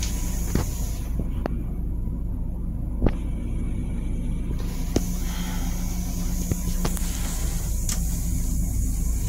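Steady low rumble of a Long Island Rail Road M7 electric railcar running, heard inside its small restroom, with a faint hiss and about half a dozen sharp knocks and rattles.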